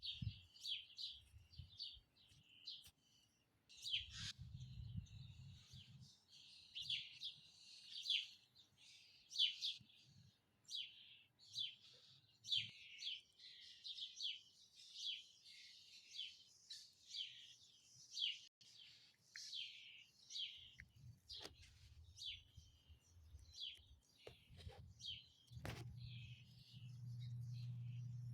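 Small birds chirping and twittering continuously in quick, short notes, with a low hum coming and going underneath, strongest near the end.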